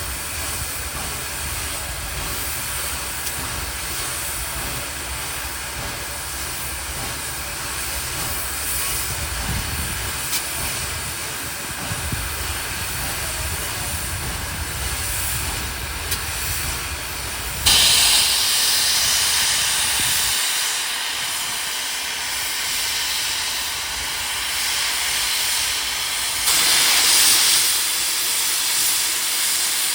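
A train makes a low rumble, then about 18 seconds in a loud, steady hiss of escaping steam or air starts suddenly. A second, louder surge of hiss comes near the end.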